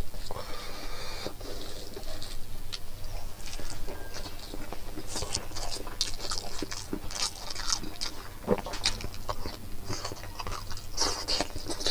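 Close-up eating sounds: moist chewing and lip smacks, with the soft squish of rice being worked by fingers. A run of sharper crunchy bites comes near the end, as a mouthful of fresh greens goes in.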